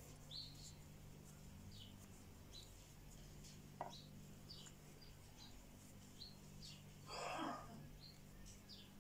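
A small bird chirps faintly in the background, short falling chirps about one or two a second, over a low steady hum. A single sharp click comes about four seconds in, and a brief rustle a few seconds later.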